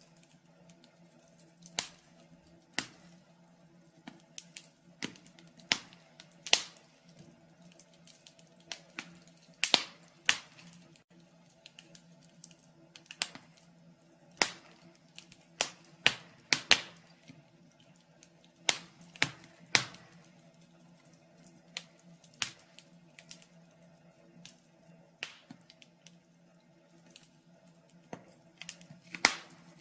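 Fire crackling in a fireplace: irregular sharp pops and snaps, some loud, about one a second, over a faint steady hum.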